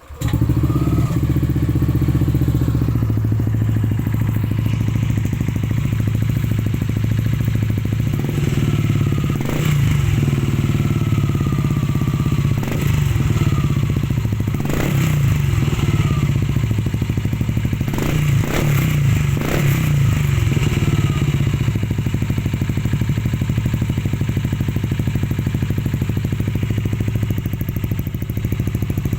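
Yamaha Aerox 155 scooter's single-cylinder engine starting and idling through a stock-style racing exhaust with a mellow note, revved in several short throttle blips in the middle before settling back to a steady idle.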